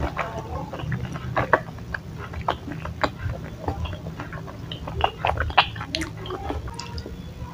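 Chewing a mouthful of bakso aci granat, a chewy tapioca ball filled with minced beef: a run of wet mouth clicks and smacks.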